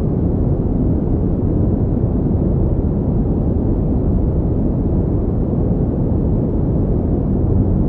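Continuous pink noise: a steady, even rushing hiss weighted toward the low end, with no change in level or pattern.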